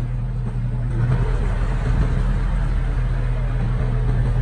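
Diesel engine of heavy earthmoving equipment running steadily with a deep hum, growing louder and rougher about a second in as it works harder.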